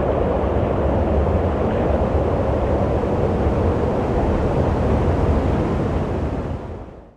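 Steady rush of wind, heaviest in the low range, fading quickly to near silence near the end as the recording loops.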